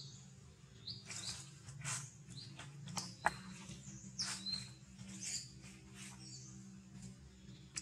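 Birds chirping, many short high calls scattered throughout, over a steady low hum, with one sharp click about three seconds in.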